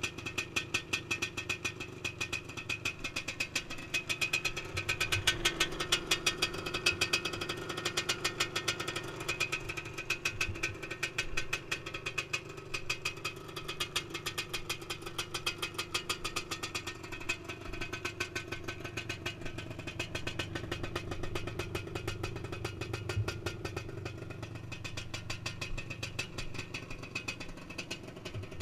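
1978 Yamaha DT400E's single-cylinder two-stroke engine idling with a steady rapid firing pulse, running a little louder for a few seconds near the start.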